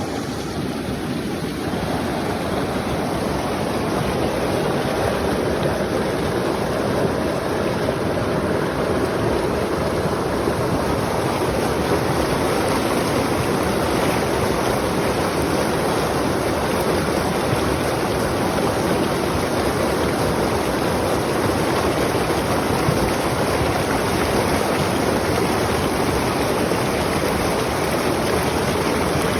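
Water rushing steadily, an even continuous noise with no breaks or changes.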